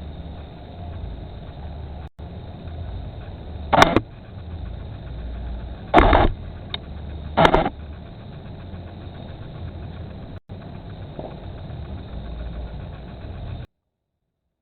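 Low-fidelity security-camera audio: a steady low rumble with three short, loud bangs, the first about four seconds in and the others about two and one and a half seconds after it. The sound cuts off near the end.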